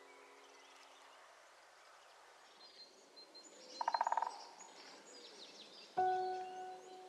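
Birds chirping, with a loud rapid rattling trill about four seconds in. A sustained note of soft background music fades out at the start, and a new one enters about six seconds in.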